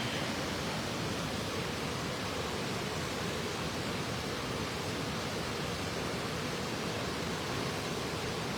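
Steady rush of a river waterfall: an even, unbroken hiss of falling water.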